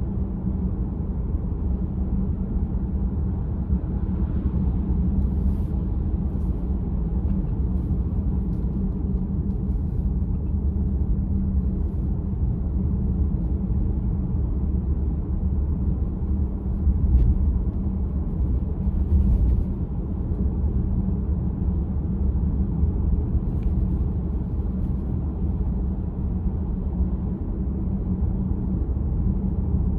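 Steady low road and tyre rumble inside the cabin of a VW ID.4 electric car while driving, with no engine note, swelling slightly about halfway through.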